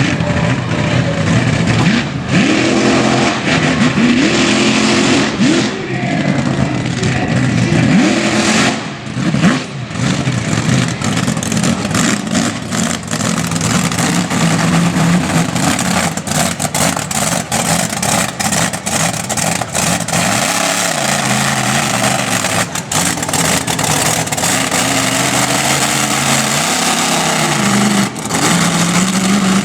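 Monster truck engine revving hard and loud, its pitch repeatedly climbing and dropping. From about a third of the way in there are many short, sharp knocks and cracks.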